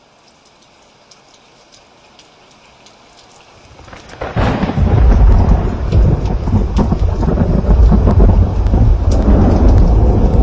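Light rain pattering, then about four seconds in a loud peal of thunder breaks in and rumbles on through the rest, over steady rain.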